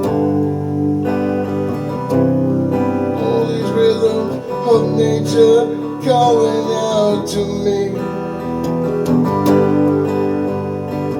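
Instrumental break of a song: acoustic guitar strumming chords, with a higher wavering melody over it in the middle.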